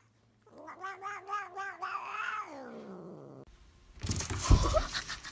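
A cat yowling in one long, wavering call that falls in pitch as it ends. Then comes a burst of noisy rustling with a loud thump about four and a half seconds in.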